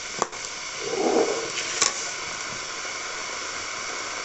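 Steady sizzling hiss of food frying in a pan, with a couple of light clicks from utensils.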